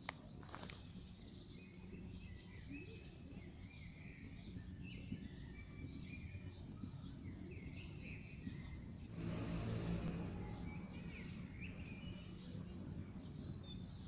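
Small birds chirping and twittering steadily in the garden around the cat, with a louder low rumble for about a second and a half about nine seconds in.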